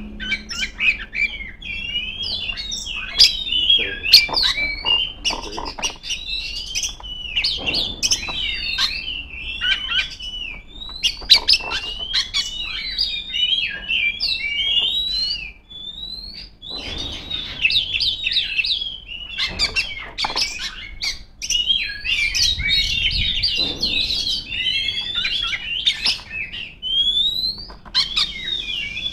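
Oriental magpie-robin (kacer) singing loudly and without let-up: a rapid run of varied whistles, chirps and sharp notes, broken only briefly about halfway through. It is a competition-style 'full isian' song laced with mimicked calls of other birds, sung as a challenge to a rival.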